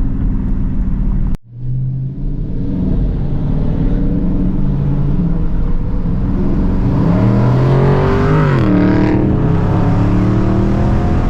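Straight-piped Dodge Scat Pack's 6.4-litre HEMI V8 exhaust under way in traffic. The sound cuts out briefly a little over a second in, then the engine note climbs under acceleration, drops sharply at a gear change about nine seconds in, and climbs again.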